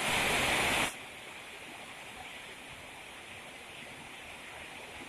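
Steady rain falling, an even hiss. For about the first second a much louder hiss covers it, then cuts off suddenly.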